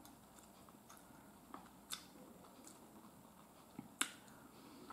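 Faint chewing of sausage with its skin on, near silence apart from a few soft mouth clicks, the sharpest about two and four seconds in.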